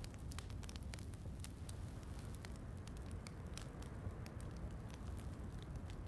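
Wood fire crackling, with many small, sharp, irregular pops over a steady low rushing background that is part of a rain-and-fireplace ambience mix.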